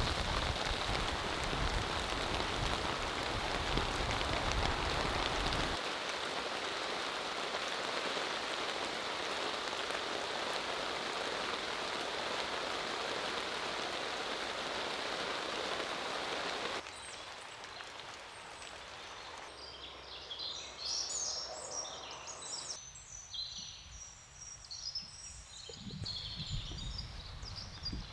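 Steady heavy rain, with a low rumble under it for the first few seconds. About two-thirds of the way through it cuts off abruptly to quieter outdoor ambience, where birds chirp and call.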